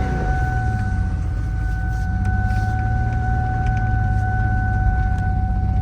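2004 Ford Taurus V6 engine running under load with dish soap in place of its oil, heard from inside the cabin as a steady low rumble with a constant high whine over it.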